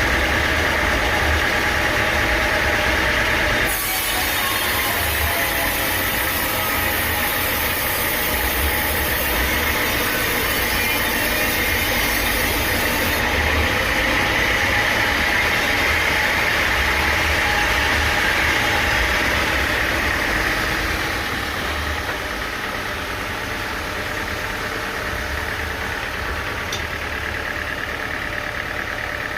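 Sawmill machinery running steadily, with a low engine rumble. A high hiss joins in a few seconds in and stops about ten seconds later, and the overall sound eases a little about two-thirds of the way through.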